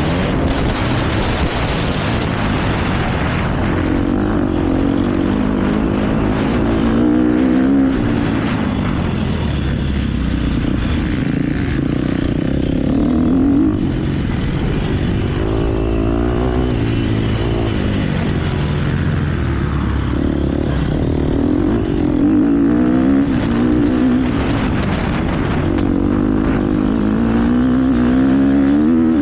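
KTM motocross bike engine under race load, revving up and falling back again and again as it accelerates and shifts, with wind and track noise throughout.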